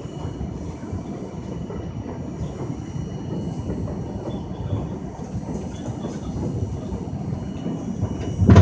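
R42 subway car running between stations, heard from inside: a steady low rumble of wheels on the track, with one loud clunk near the end.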